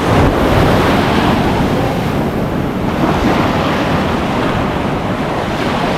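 Heavy surf breaking on a rocky coral shore, a deep rumbling wash that sounds like thunder, with wind buffeting the microphone. The wash swells at the start and again about three seconds in.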